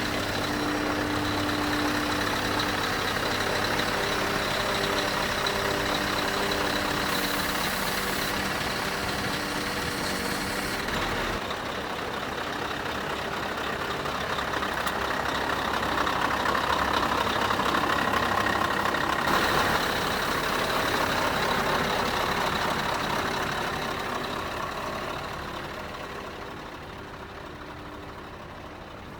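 Scania R500 truck's V8 diesel engine running steadily. The sound changes character about eleven seconds in, swells a little after the middle and fades over the last few seconds.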